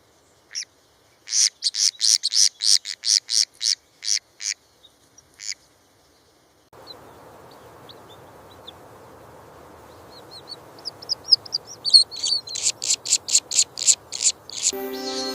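A bird chirping in quick runs of short, sharp, high calls, about four a second: one run in the first few seconds and another, building up, near the end. A faint steady hiss of background ambience comes in about halfway.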